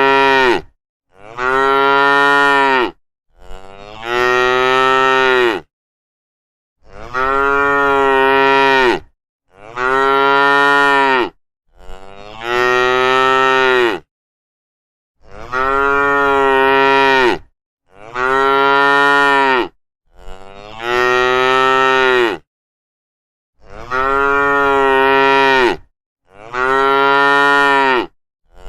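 Cows mooing, one long call after another, about a dozen calls of roughly two seconds each, with dead-silent gaps between them.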